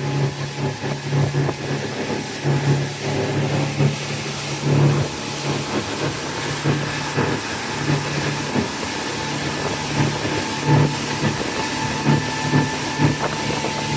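Boat engine running steadily under way, its low hum swelling and fading, over a constant hiss of wind and water, with a few short thumps in the second half.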